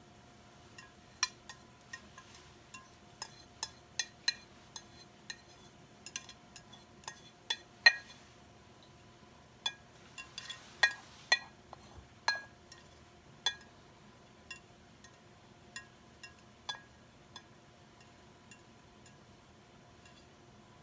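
Kitchen utensils and dishes clinking: many light, irregular taps and clinks, each with a brief ring, and a few sharper ones mixed in.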